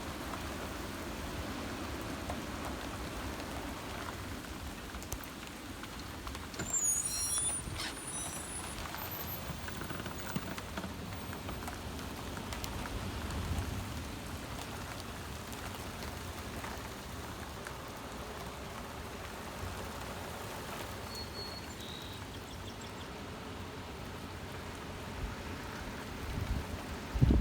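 Heavy thunderstorm rain with gusty wind, a steady rushing noise, with a brief high squeak about seven seconds in.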